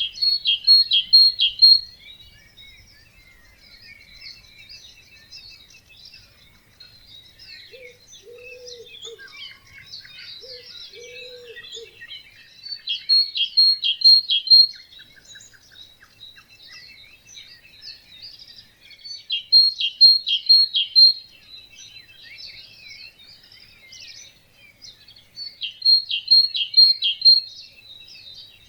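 Several birds singing together in a wetland morning chorus. One bird repeats a loud short song of rapid notes four times, with two lower calls near the middle.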